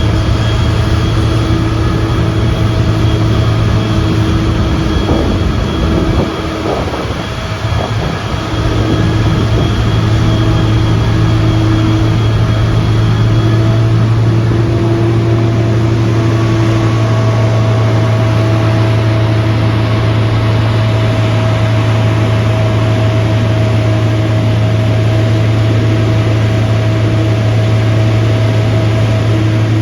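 Heavy vehicle engine running steadily with a deep, even hum, dipping briefly about six to eight seconds in before settling back.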